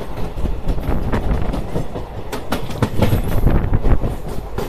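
Passenger train running along the track: a heavy rumble with irregular knocks of the wheels over rail joints.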